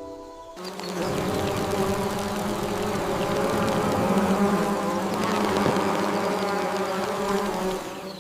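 A steady low buzz like a bee's flight, starting about half a second in and fading out near the end.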